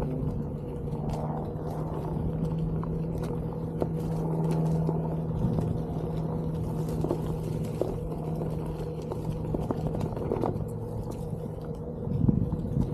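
Onewheel GT electric hub motor humming at a steady pitch under way, with the tyre rumbling over the trail and small ticks and knocks from the ride. A louder rumble comes near the end.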